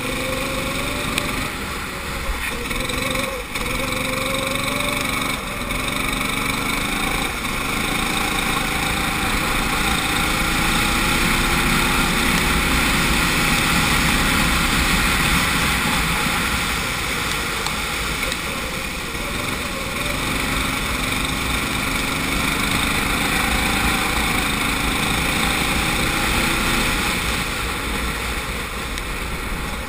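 Go-kart engine heard onboard, revving up steadily along the straights and dropping back for the corners. There are several short lifts in the first few seconds, then two long climbs in pitch.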